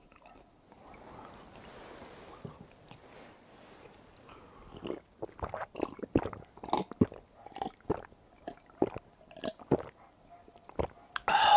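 Close-miked chewing of chewy rice cakes in sauce: wet mouth smacks and squishes, faint at first, then many in quick succession from about five seconds in. A brief loud burst comes near the end.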